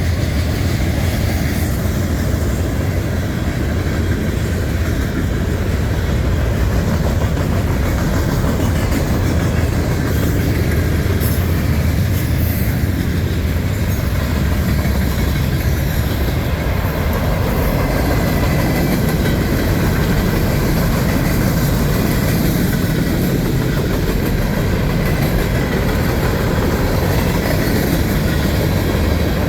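A train's cars rolling past on the track: a steady, loud rumble with clickety-clack of the wheels over the rail joints.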